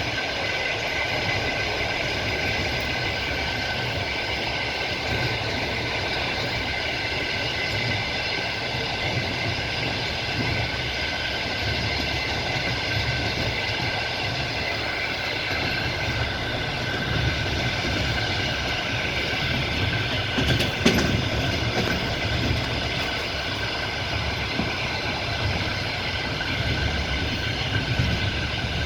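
Passenger train running along the line, heard from inside a carriage at the window: a steady rumble of wheels on rails with a steady high ringing over it, and one sharp knock about twenty-one seconds in.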